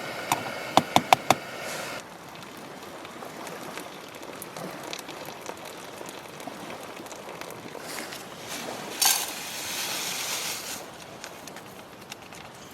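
Five quick ringing metallic clinks of camp cookware about a second in, with a steady tone that cuts off two seconds in. Light handling noises follow, then a sharp knock and a brief hiss about nine seconds in.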